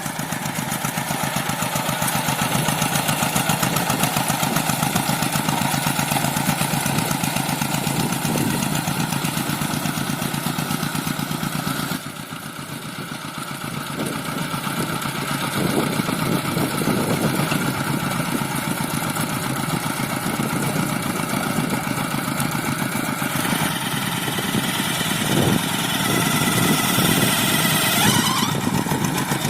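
Single-cylinder diesel engine of a two-wheel hand tractor running with rapid, even firing pulses. It drops back briefly about twelve seconds in, then picks up again.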